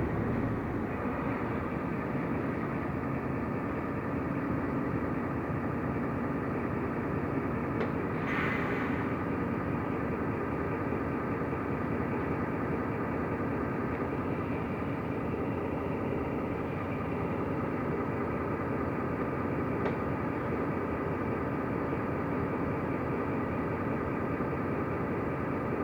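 Inside a Mercedes-Benz O345 Conecto LF city bus under way: steady engine drone and road noise. A brief hiss comes about eight seconds in.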